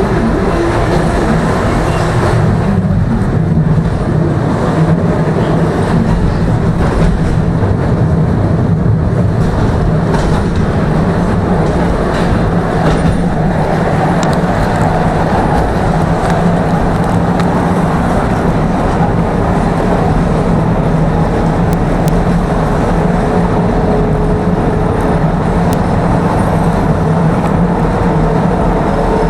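Tram running along the track: a steady rumble of wheels on rails with a low hum from the motors, heard from inside the car.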